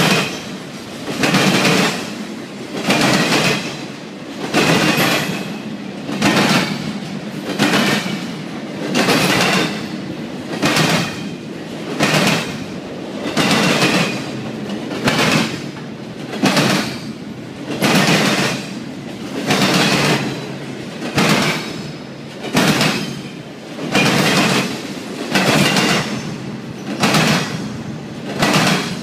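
CSX double-stack container freight train rolling past. Its wheels clack over the rail joints in loud pairs about every two seconds as each car's trucks go by, over a continuous rumble.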